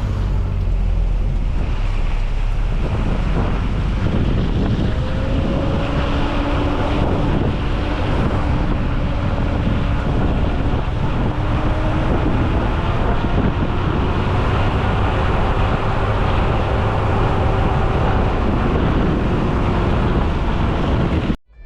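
Strong wind rushing over the microphone, with a steady low drone wavering faintly in pitch underneath; it cuts off suddenly near the end.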